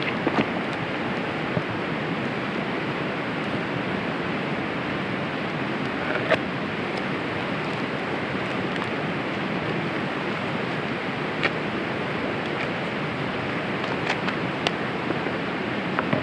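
Burger sizzling steadily in hot oil in a cast-iron pan over a campfire, with a few sharp pops scattered through it.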